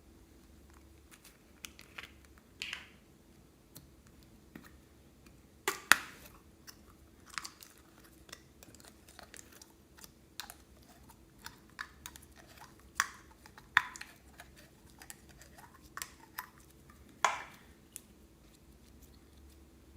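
Slime being squeezed and mixed by hand, making irregular sticky clicks and crackly pops, with the loudest pops about six, fourteen and seventeen seconds in.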